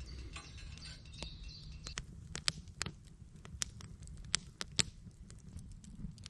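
A quick, irregular run of sharp clicks and ticks, thickest and loudest in the middle, over a low steady rumble; faint high chirps in the first second or so.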